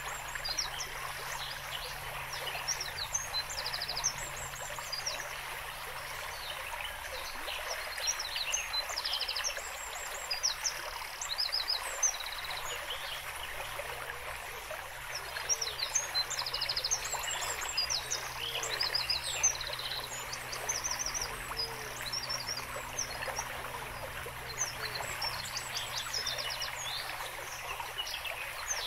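Several small birds singing in short, high, rapid trills and chirps over a steady background hiss.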